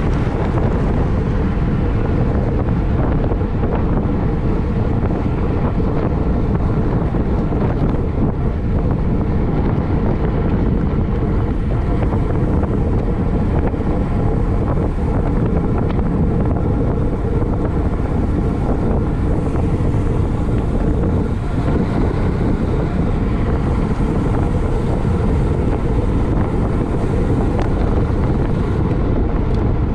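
Loud, steady wind noise buffeting the microphone of a road bike moving at race speed, over a constant low rumble.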